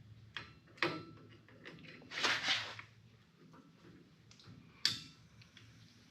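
Hand work on a car's front wheel hub: a few sharp clicks and knocks of metal parts and tools being handled, with a brief noisy scrape about two seconds in.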